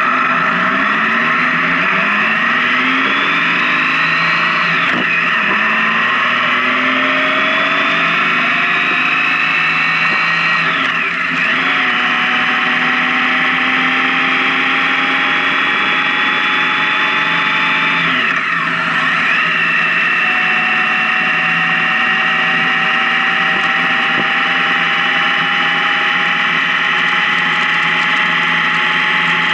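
Honda Gold Wing motorcycle engine accelerating through the gears: its pitch climbs, drops sharply at each of three upshifts, then settles into a near-steady cruise that creeps slowly higher.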